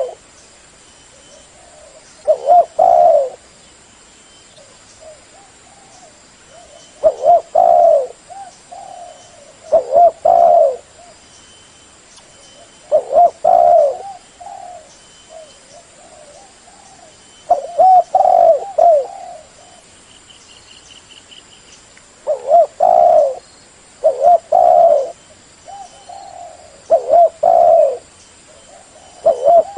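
Spotted dove cooing, loud and close. It gives a short phrase of a few low, rolling coos, repeated every three to five seconds.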